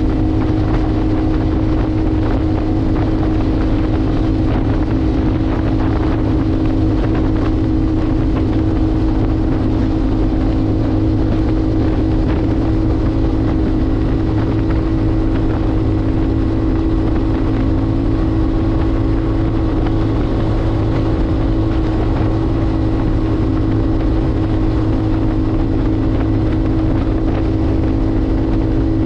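Motorcycle engine running at a steady, unchanging pitch, with wind noise buffeting the microphone.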